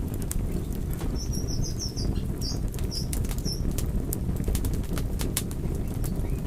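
Wood fire burning with a steady low rumble and frequent sharp crackles and pops. About a second in, a bird chirps some seven times in quick succession over two and a half seconds.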